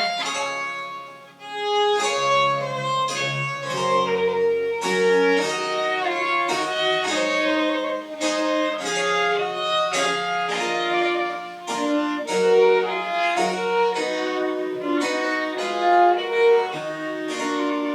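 French Baroque chamber music played live: a violin plays a busy melody over a lower bass line, with a short break between phrases about a second and a half in.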